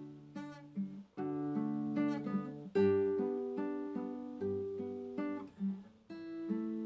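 Acoustic guitar played slowly and softly, chords plucked and strummed about once a second, each ringing out and fading, with a short pause about a second in and another near the end.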